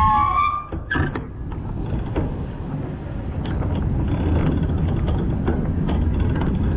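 A horn's pitched blare cuts off shortly after the start. Then a vehicle's low engine and road rumble runs on, with scattered clicks and knocks.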